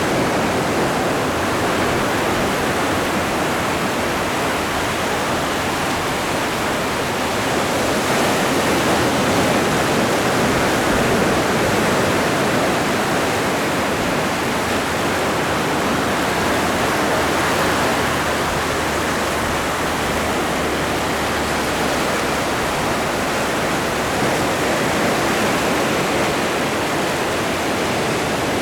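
Ocean surf making a continuous, steady rush of breaking and washing water, with slow, gentle swells in level.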